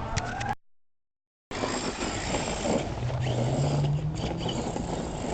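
Redcat Everest 10 RC monster truck: its electric motor whines, rising in pitch, then cuts off abruptly at an edit. After a second of silence comes a rough hiss with scattered small ticks as the truck drives over rough ground.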